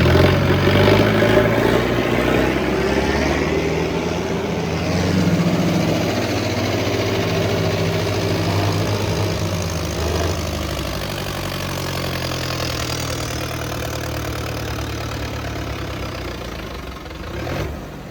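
Tractor's diesel engine running steadily; loudest in the first few seconds, then easing off a little.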